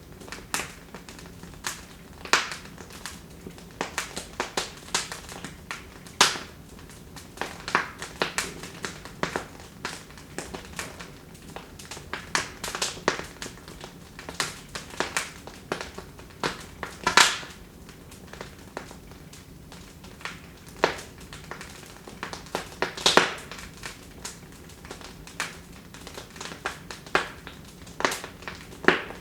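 Wood fire in a fireplace crackling, with irregular sharp pops and snaps over a low steady hiss of flame; a few louder pops stand out, the loudest a little past halfway.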